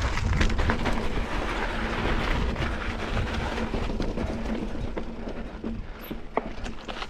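Mountain bike rolling down a slickrock descent: steady tyre-on-rock and wind rumble that eases off toward the end, with a few sharp knocks near the end.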